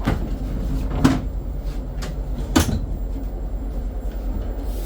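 Steady low rumble of a moving passenger train, broken by three sharp knocks: one at the start, one about a second in and one about two and a half seconds in.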